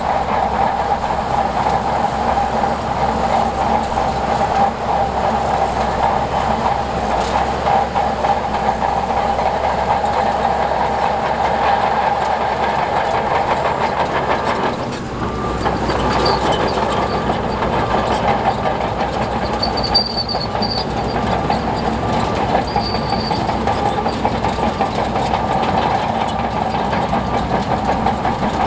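Tracked earthmoving machine at work: a diesel engine running steadily under a continuous clatter of steel crawler tracks. The sound dips briefly about halfway, then carries on with a deeper rumble.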